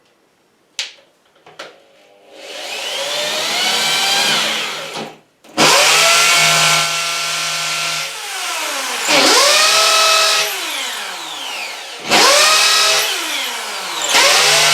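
Hammer drill boring into a wall. The motor spins up, stops briefly, then runs loud with its pitch sagging and recovering three times as the bit is worked in and out of the hole to clear the dust and keep it from binding.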